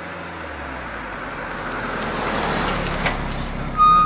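A vehicle growing louder as it approaches, with a short high beep near the end.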